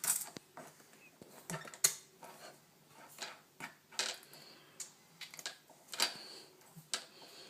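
Irregular light clicks and taps, a few a second, some sharper than others, like small hard objects knocking on a dish.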